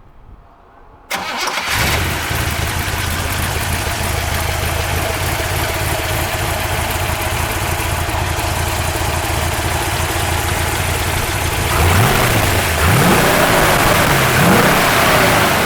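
1963 Corvette's 327 small-block V8 with side-exit exhaust starting about a second in, then idling steadily. Near the end it is blipped several times, the revs rising and falling.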